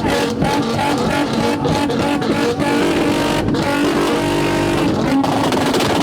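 Car engine revved hard and held at a steady high pitch, cutting out briefly a few times.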